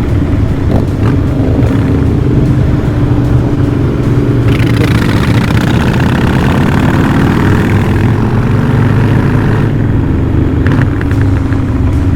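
V-twin motorcycle engines running steadily while riding. A louder rushing noise joins them from about four and a half seconds in until nearly ten seconds.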